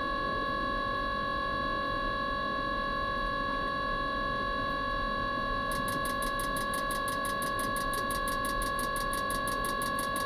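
Mikuni heater running with a steady motor whine, likely its combustion fan. About six seconds in, a fast, even ticking of roughly seven to eight ticks a second joins the whine.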